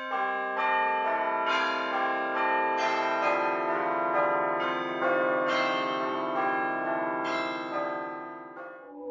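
Church bells ringing a run of strikes, about two a second, each note ringing on under the next, stopping just before the end.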